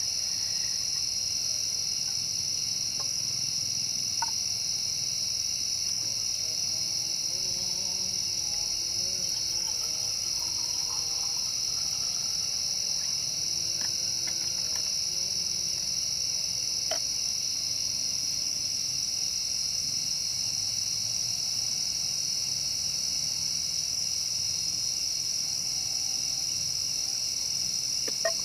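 Steady, high-pitched chorus of forest insects, an unbroken buzz, with a few faint clicks.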